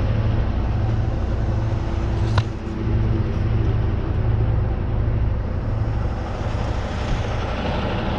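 Tow truck's engine running with a steady low hum, and a single sharp click about two and a half seconds in.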